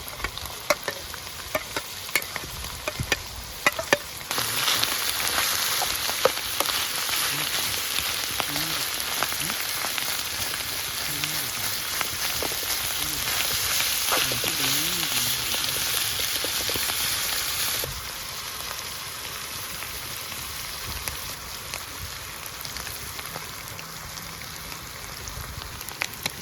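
Food sizzling and frying in hot oil in a pan over a fire, with sharp clicks in the first few seconds. The sizzle jumps much louder about four seconds in and drops back to a quieter sizzle about two-thirds of the way through.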